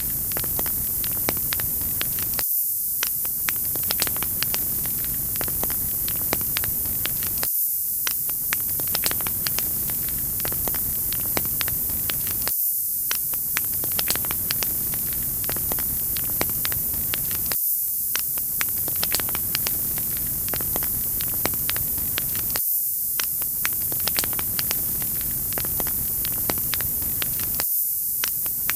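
Wood fire crackling: a steady hiss with many small sharp pops and snaps. The lower part of the sound drops out briefly about every five seconds.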